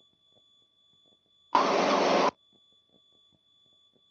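Aircraft radio in the headset: a short burst of static hiss, under a second long, about a second and a half in, over a faint steady high whine. It is an open-carrier or garbled transmission, with no readable reply to the call.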